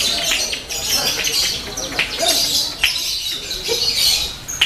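Many lovebirds chirping and chattering at once: a dense, unbroken mass of high, sharp chirps and trills.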